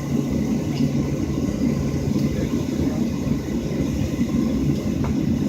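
Steady low drone inside a parked Boeing 737-700 cabin, with a constant hum under it.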